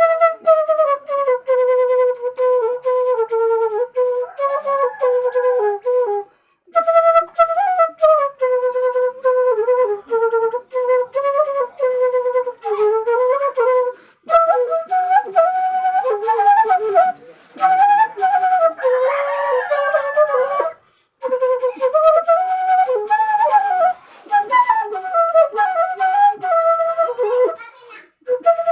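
Seruling flute playing a melody in long phrases, with a short break between phrases about every seven seconds.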